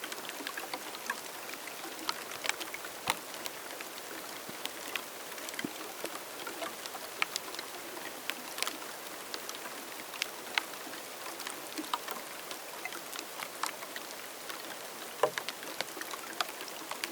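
Rain falling: many scattered, sharp individual drop impacts over a steady hiss of rainfall.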